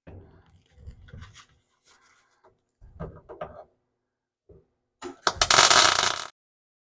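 Rustling and light knocks of tools and metal pieces being handled, then near the end a harsh crackling burst of about a second: a MIG welder laying a plug weld through a floor patch.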